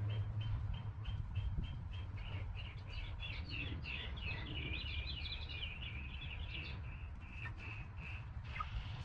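Small birds chirping: a short high call repeated about four times a second, breaking into a quicker jumble of chirps about three seconds in, then back to spaced repeated calls near the end, over a low steady rumble.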